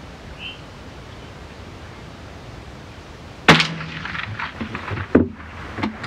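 A single .22LR rifle shot about halfway through, a sharp crack, followed by a run of clicks and knocks as the rifle's action is worked. Light wind noise before the shot.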